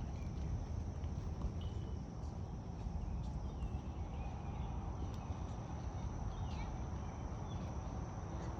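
Outdoor park ambience on a walk: a steady low rumble with a continuous thin high hum over it, and a few faint, brief sounds in the distance.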